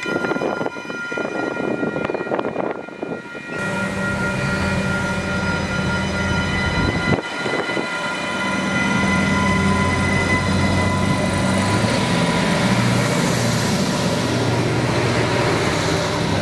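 Adelaide Metro 3000 class diesel railcars approaching and passing close by. A low engine drone comes in about three and a half seconds in and grows louder as the cars draw alongside, over steady high-pitched whine tones.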